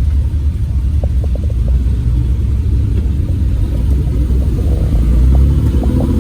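Low rumble of engine and road noise inside a moving car's cabin, with a few light ticks. Near the end the engine note starts to rise as the car picks up speed.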